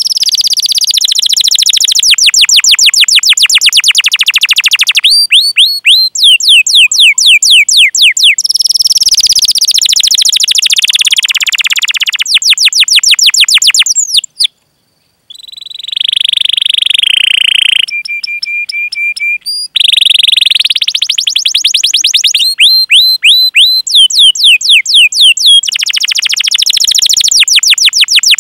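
Domestic canary singing a long training song: fast trains of repeated downward-sweeping 'cuit cuit' chirps alternating with rolling trills, with a short pause about halfway through.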